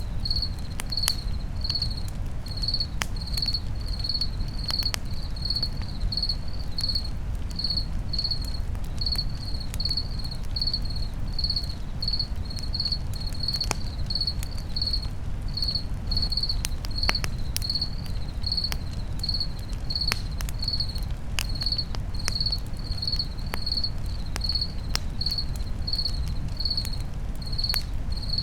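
Crickets chirping steadily, about one and a half high chirps a second, over a crackling campfire that gives sharp irregular pops and a steady low rumble.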